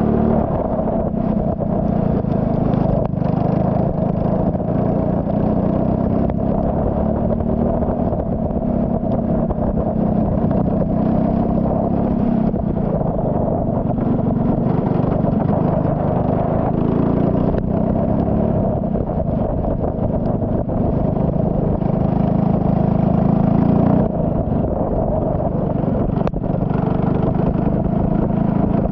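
Turbocharged Saab 9-3 race car's engine running hard on track, its pitch rising and falling with throttle and gear changes, with a brief dip about 24 seconds in.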